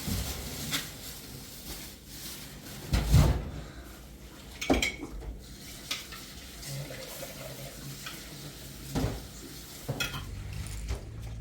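Dishes and cutlery clinking and knocking at irregular moments, with the loudest knock about three seconds in.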